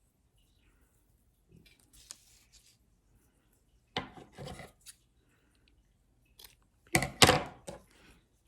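Handling noise of a cardboard and contact-paper craft while string is tied off: faint rustling, then two louder short rustling, scraping bursts about four and seven seconds in.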